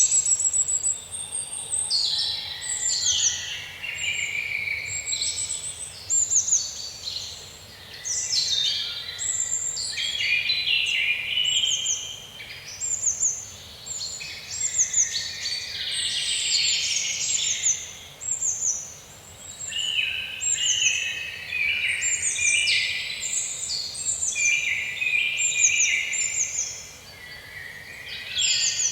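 Small songbirds chirping and trilling continuously, many short high calls overlapping one another.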